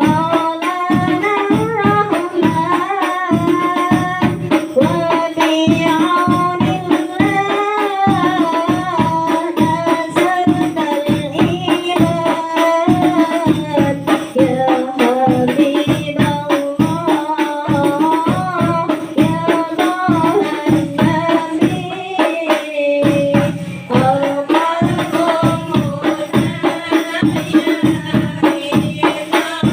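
A woman's voice singing a wavering, ornamented melody over frame drums with jingles, which beat a fast, steady rhythm throughout.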